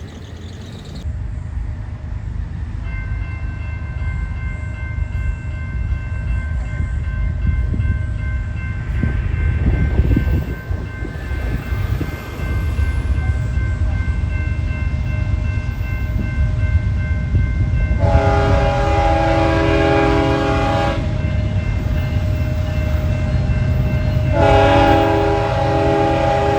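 Approaching freight train led by BNSF 7524, its rumble building, then the locomotive horn sounding a long chord blast of about three seconds and starting a second blast near the end.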